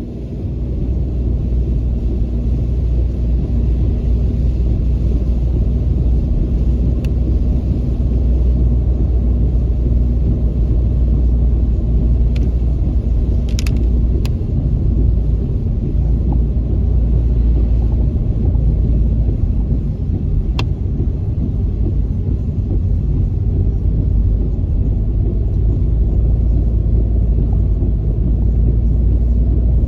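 Car driving, a steady low rumble of engine and tyres on the road, with a few isolated sharp clicks about midway.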